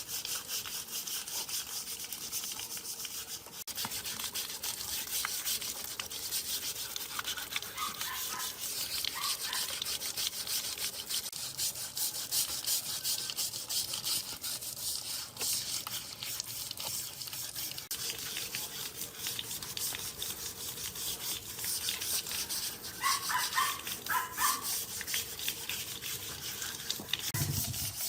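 Wood being hand-sanded, a continuous scratchy rubbing made of rapid back-and-forth strokes.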